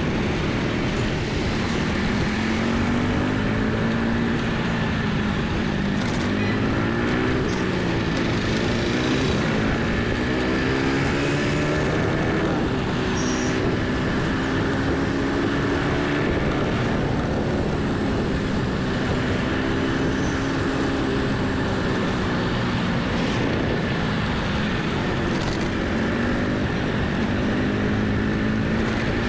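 Motorcycle engine running on the move, its pitch slowly rising and falling as the throttle and speed change, over steady road and wind noise.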